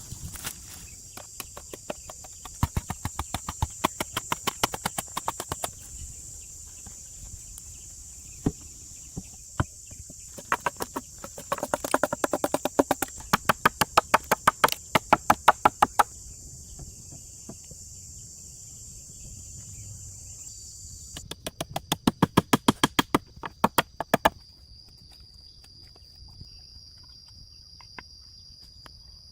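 Three runs of rapid, even knocks, about four a second and each a few seconds long, from hand-tool work on the shelter build. A steady, high insect drone sounds underneath.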